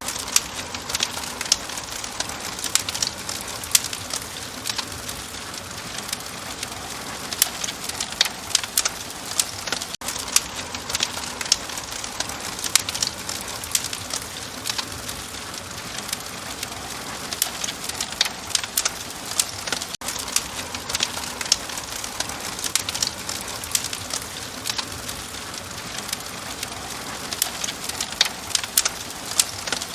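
Fire crackling, with frequent sharp pops and snaps over a soft steady hiss.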